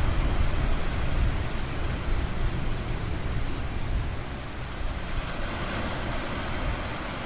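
Steady rushing noise of ocean surf, with a low rumble that eases off over the first few seconds.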